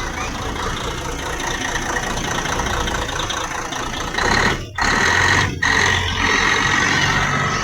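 Bus engine idling. From about four seconds in it gets louder with a steady high whine, and cuts out twice briefly.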